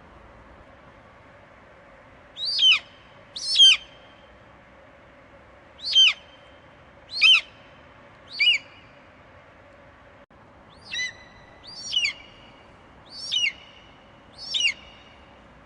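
Eagle calling: nine short, high-pitched screeches, each falling sharply in pitch, a second or so apart, in a run of five and then a run of four, over a steady hiss.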